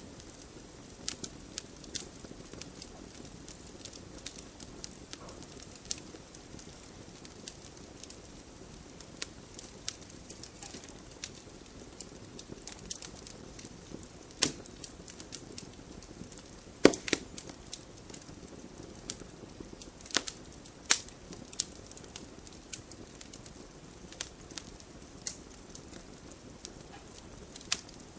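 Wood fire burning in a fireplace with a low steady rumble and irregular sharp crackles and pops, a few louder snaps among them.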